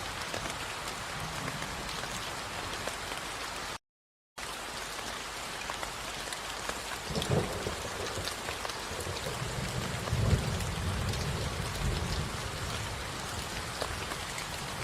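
Steady rain falling, a dense hiss with distinct drop ticks, which cuts out completely for about half a second about four seconds in. Low rolls of thunder come in later, a short one and then a longer, louder one.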